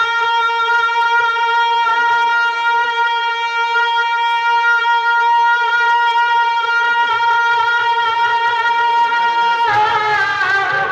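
One sustained, perfectly steady reed-like instrument note held as a drone under a naat recitation, with the solo voice resting. Faint vocal sounds come in behind it, and the singing resumes near the end.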